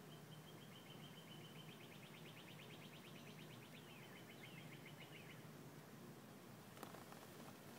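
Faint bird song: a rapid trill of high repeated notes, about seven a second, lasting some five seconds and ending in a few falling notes. A single faint click near the end.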